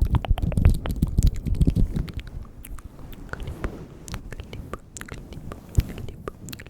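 Close-miked ASMR mouth sounds: rapid wet clicks and smacks of lips and tongue, dense and loud for about the first two seconds, then sparser and softer, with one sharper click near the end.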